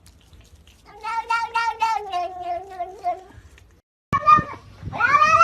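A cat's long, drawn-out yowl with a wavering pitch that slowly sinks. After a short break it is followed by louder meowing, the last call rising and then falling in pitch.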